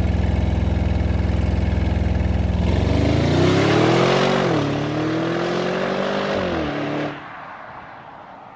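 Audi RS Q8's 4.0-litre twin-turbo V8 running at steady revs, then accelerating with its pitch climbing, dipping briefly about four and a half seconds in, climbing again, then dropping off and fading out near the end.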